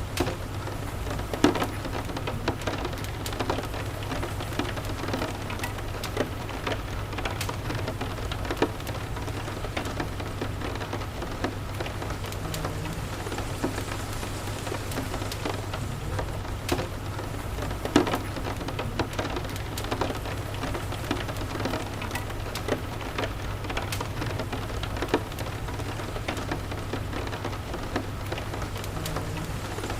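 Steady rain falling, a continuous hiss with scattered sharp drips and pops, a few of them louder, over a low steady rumble.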